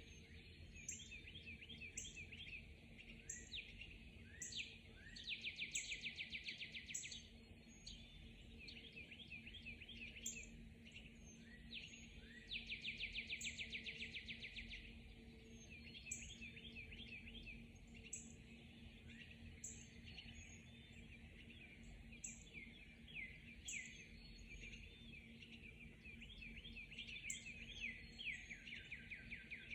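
Dawn chorus of several songbirds chirping and singing, with two rapid trills of about two seconds each. A faint steady low hum lies underneath.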